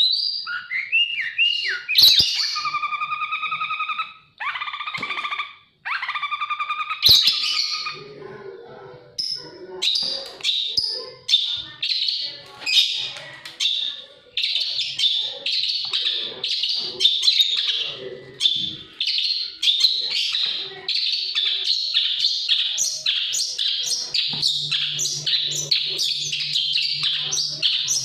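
Songbird singing: a few clear, drawn-out whistled phrases, then a fast, continuous string of short chirps several times a second. A faint low hum sets in near the end.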